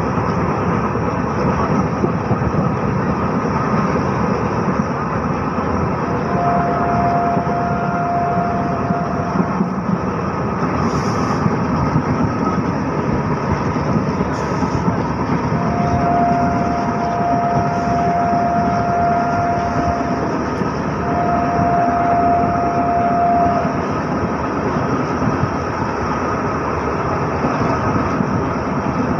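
Indian Railways passenger train running, a steady dense rumble and rush of wheels and rain. A single steady whining tone sounds three times for a few seconds each.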